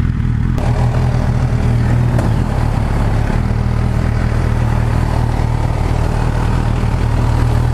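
MV Agusta Brutale 910's inline-four engine running steadily at low revs as the bike rolls slowly.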